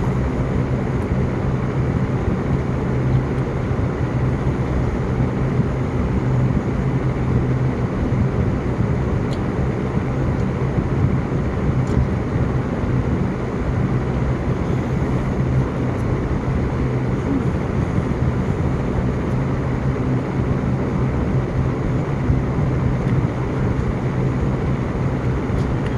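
Steady low hum and even rush of a car's engine running, heard from inside the cabin.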